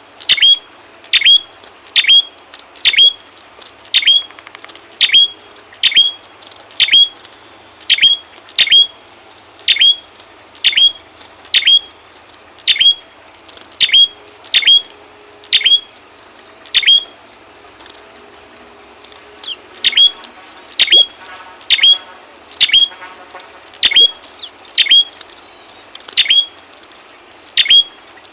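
Recorded lure call of the prenjak kepala merah, a small songbird: a loud, sharp, high note sweeping downward, repeated about once every 0.8 s. A short pause comes about two-thirds through, then fast chattering trills join the notes.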